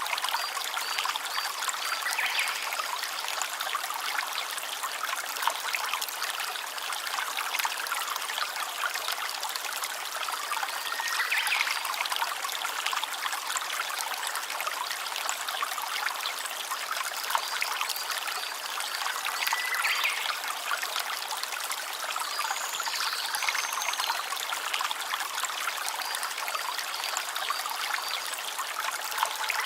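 Small stream babbling and trickling steadily over stones.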